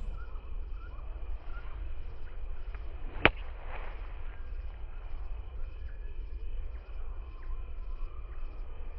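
A single sharp crack about three seconds in, a golf club striking the ball, over steady low outdoor background noise.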